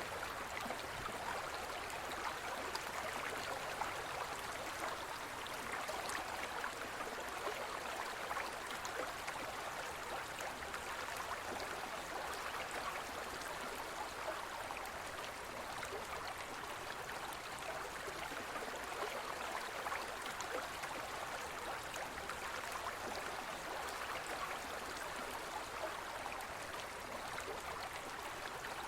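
A forest stream flowing steadily, a constant rush of water with small splashes and gurgles.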